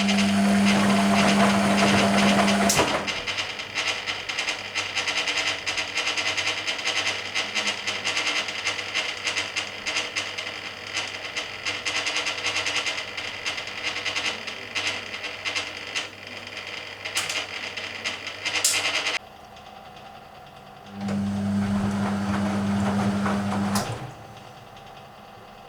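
1980 Hoover Keymatic A3112 washing machine during a rinse. The drum motor hums for about three seconds at the start and again for about three seconds near the end. In between comes a steady churning and sloshing of rinse water and laundry in the drum, with a few clicks, which cuts off suddenly a few seconds before the second hum.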